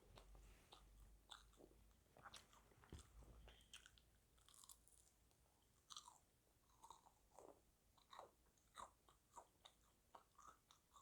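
Close-up chewing and biting of KFC burger and fried chicken, with frequent short, irregular crunches and moist mouth clicks.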